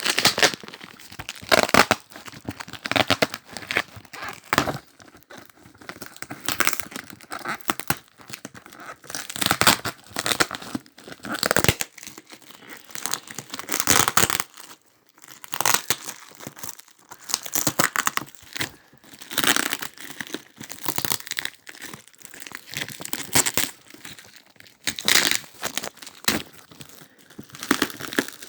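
Parcel packaging being unwrapped by hand: sellotape ripped off and wrapping torn and crinkled in irregular bursts every second or two.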